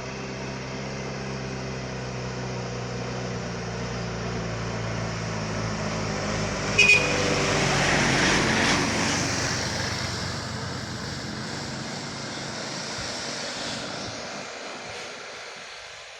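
Heavy trucks driving hard through a bend, the engines working under full throttle and growing louder as they pass, loudest about eight seconds in, then fading away. A brief high-pitched toot sounds about seven seconds in.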